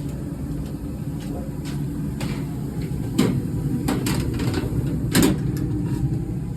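Furnace running with a steady low rumble, with several sharp clicks between about three and five seconds in.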